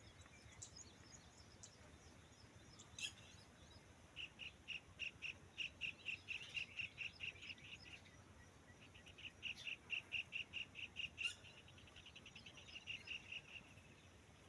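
Bird calling: two long runs of short, evenly repeated high chirps, several a second, the second run speeding up near the end, with scattered higher chirps from other birds.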